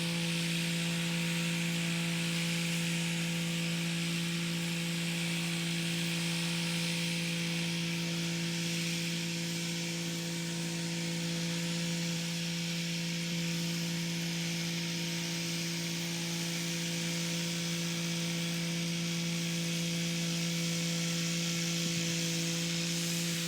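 Kubota SL35 tractor running steadily at constant speed: an even, unchanging drone with a steady hum and a hiss over it.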